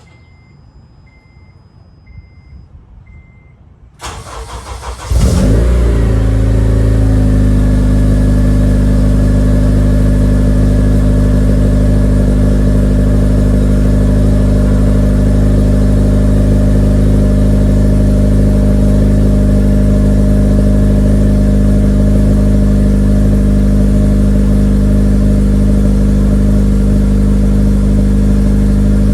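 A faint repeating beep, then about four seconds in the starter cranks and the 2006 Acura TSX's 2.4-litre four-cylinder fires through a PLM header and Megan Racing cat-back exhaust. Its speed drops within a couple of seconds into a steady idle.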